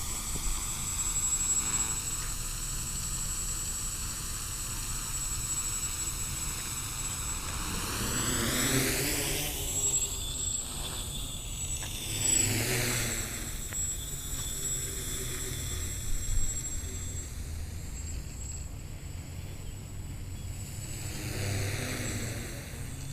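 Xaircraft X650 quadcopter's electric motors and propellers buzzing in flight, with a sweeping, whooshing change in pitch as it comes close and moves away, about eight to thirteen seconds in and again near the end.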